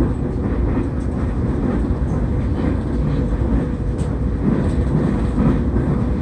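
Nankai Airport Line train running at speed, heard from inside the carriage: a steady low rumble of wheels on rails.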